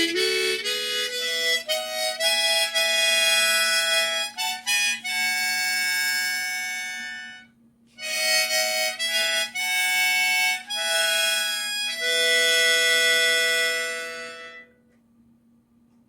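Harmonica playing a song's closing phrase in two parts, often sounding two notes together, with a short break about seven and a half seconds in; the playing stops about a second and a half before the end.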